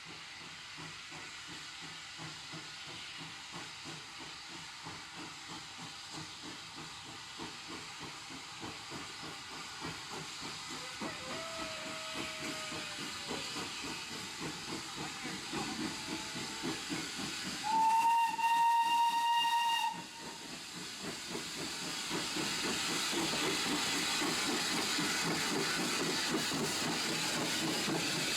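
Steam locomotive working, with a rhythmic exhaust beat and hiss that grow louder. Its whistle sounds once for about two seconds, about two-thirds of the way through.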